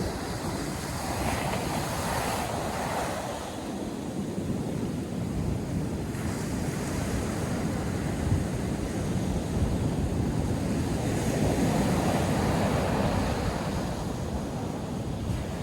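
North Sea surf breaking and washing ashore in a steady rush that swells and eases, with wind buffeting the microphone.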